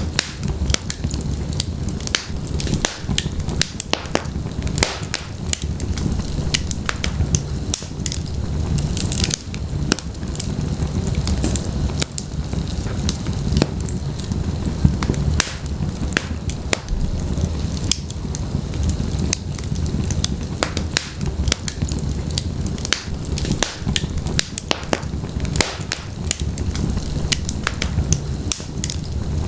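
Wood logs burning in a fireplace: a steady low rumble of flame under dense, irregular crackles and pops.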